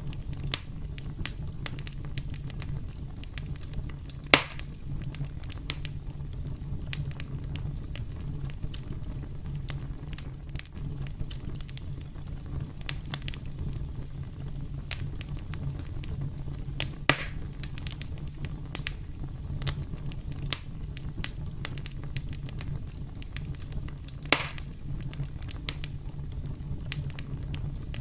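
Campfire crackling steadily over a low, even rumble, with three louder pops spaced through the stretch.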